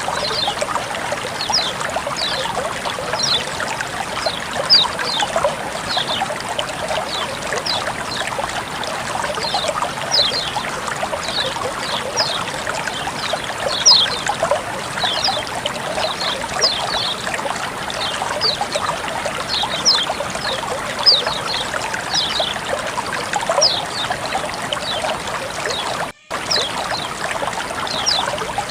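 Running water trickling and splashing steadily, with many short high falling chirps scattered through it. The sound cuts out for a split second near the end.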